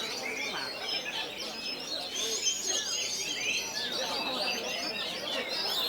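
Several caged oriental magpie-robins singing at once in a dense, unbroken chorus of overlapping high whistles, trills and chirps.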